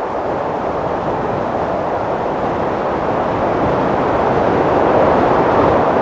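Wind blowing: a steady rushing noise with no whistling tone, swelling a little louder about four seconds in.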